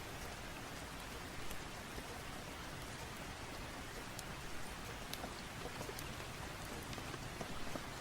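Steady rain falling, with scattered sharp ticks of drops over an even hiss.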